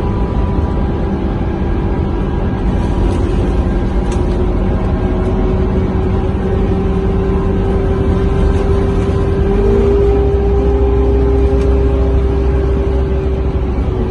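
Scania K230UB bus under way, heard from inside the cabin: a steady diesel engine drone with a low rumble and a held tone. About ten seconds in, a short rising whine comes in and the engine gets a little louder as it pulls harder.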